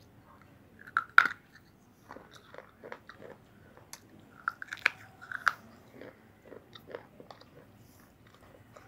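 A person biting and chewing slate pencil: a string of sharp, irregular crunches, loudest about a second in and again around five seconds in.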